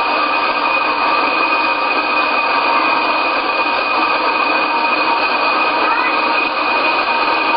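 Helicopter transmission running at a constant speed: a steady mechanical whine of several high tones over a continuous rushing noise.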